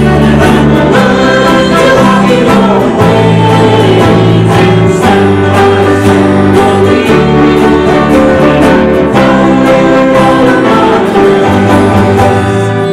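Live church worship music: a band playing and voices singing in held notes, with the final chord dying away near the end.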